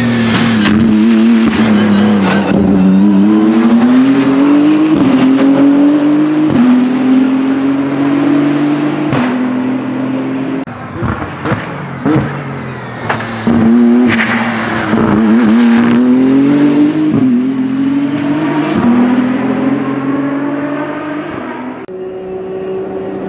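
BMW M4 GT3's twin-turbo inline-six engine at racing speed. It pulls hard through the gears with quick upshifts, downshifts with throttle blips under braking about ten seconds in, then accelerates through the gears again.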